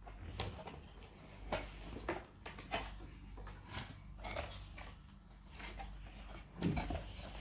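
Cardboard box and packaging being opened by hand: scattered crinkles, scrapes and light taps at irregular intervals.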